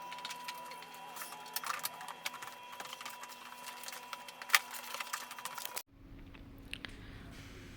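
Irregular small clicks, taps and crinkles from cardboard being handled during craft work, over a faint steady hum. About six seconds in, the sound cuts abruptly to a quieter low room noise.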